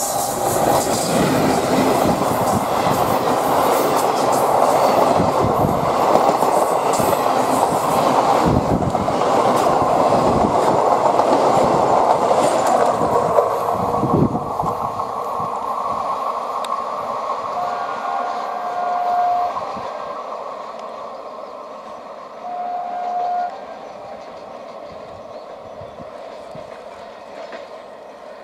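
Coaches of a passenger express rushing past close by, wheels clattering over the rail joints. The sound dies away after about halfway as the train recedes. Two horn blasts follow in the second half, the second one louder.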